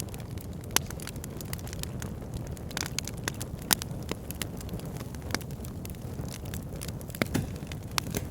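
Wood fire burning in a fire pit: a steady low rumble of flames with irregular sharp crackles and pops, two louder pops about a second in and near four seconds.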